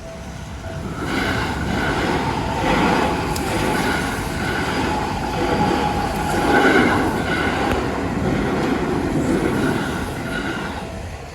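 A Seibu Shinjuku Line electric train passing over a level crossing: loud wheel-on-rail running noise with a repeating clatter builds about a second in, holds for some ten seconds and eases off near the end. A level-crossing warning bell rings at the start, is drowned out by the train, and is heard again faintly as it passes.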